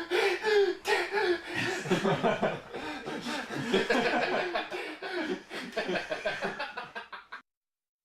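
People laughing and chuckling, with a little chatter mixed in, until the sound cuts off abruptly about seven and a half seconds in.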